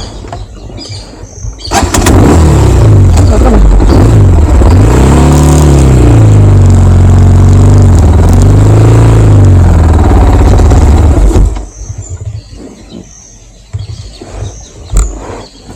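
Motorcycle engine revving hard, its pitch rising and falling twice, under a loud rush of noise that starts about two seconds in and drops away suddenly near the end.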